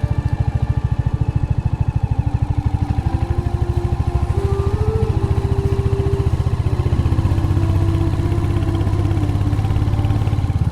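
Royal Enfield Hunter 350's single-cylinder engine running steadily while riding, with a dense, even thump-thump exhaust beat.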